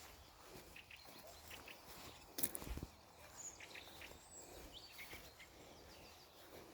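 Faint dawn birdsong in a forest, with several birds giving short chirps and brief sliding calls. A single louder knock sounds about two and a half seconds in.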